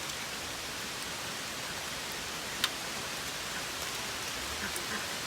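Steady rain falling, with scattered drops striking close by and one sharper drip about halfway through.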